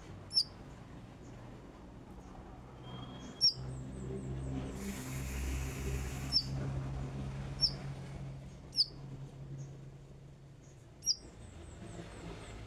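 A konin songbird giving six short, sharp, high chirps, each a quick downward flick, spaced irregularly a second or a few seconds apart. A low hum runs underneath, with a brief patch of hiss about five seconds in.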